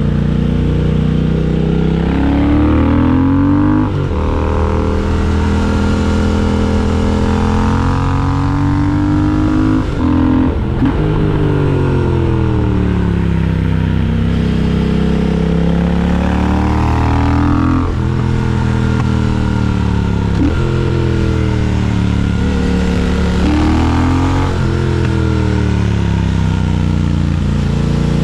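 Triumph Speed Twin 1200's parallel-twin engine running under load, its pitch climbing and falling over and over, with a sharp drop in revs four times.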